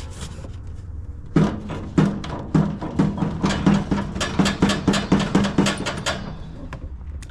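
Starter of a 17 hp Kohler Courage SV530 riding-mower engine trying to turn it over: a rhythmic run of short buzzing clunks, about three a second, starting a little over a second in and stopping about a second before the end, without the engine catching or starting.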